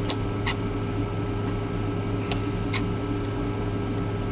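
A small knife cutting pickles into chunks, giving a few sharp taps of the blade against the cutting surface, two near the start and two a little past halfway. A steady low hum from the truck cab runs underneath.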